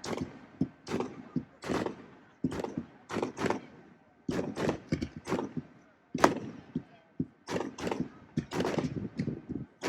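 Fireworks going off in quick succession: a string of sharp bangs and crackles, about two a second.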